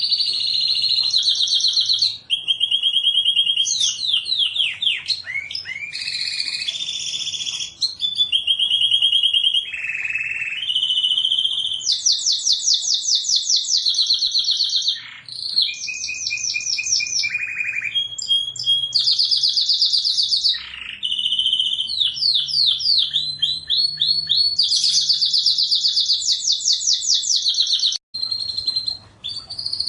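Domestic canary singing a long, continuous song made of fast trills, a new trilled phrase every second or two, with some quick falling sweeps mixed in. The song breaks off briefly near the end and then resumes.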